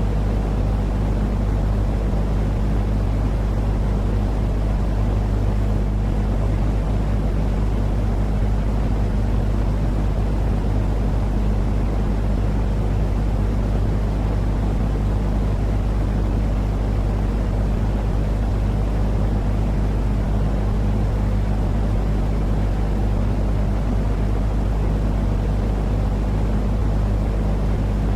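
Steady, unchanging low rumbling noise from a baby sleep-aid noise track, with a few steady low hums beneath it and nothing sudden.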